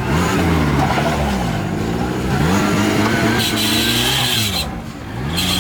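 Off-road vehicle engine revving up and down over and over, in the pattern of a car working its way through a rough obstacle. A high-pitched sound joins in about three and a half seconds in and again near the end.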